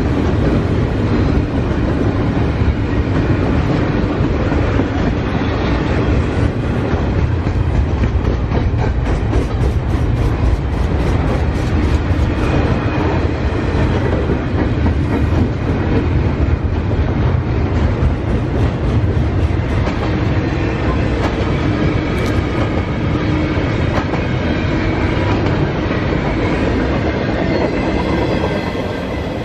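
Double-stack intermodal container cars of a freight train rolling past: a steady, loud rumble of steel wheels on rail. About a third of the way in there is a run of clicks from the wheels crossing rail joints, and the sound eases slightly near the end.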